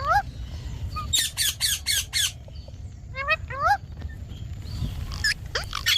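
Indian ringneck parakeet squawking. A run of five quick, harsh calls comes about a second in, then rising calls around three seconds in and again near the end.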